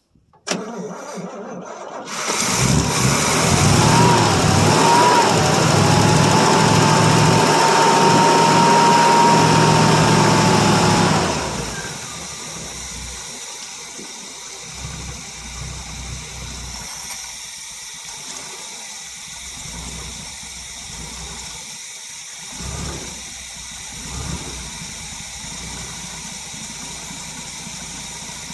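1967 Chevrolet C10's 305 small-block V8, breathing through glass-pack mufflers, starting cold after about three years of sitting. It catches about two seconds in and runs loud for about nine seconds, with a whine that rises and then holds steady. About eleven seconds in it drops to a steady idle.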